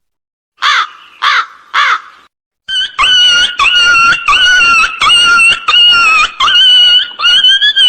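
An animal calling: three short rising-and-falling calls, then from about three seconds in a fast run of longer, high-pitched calls, about two a second.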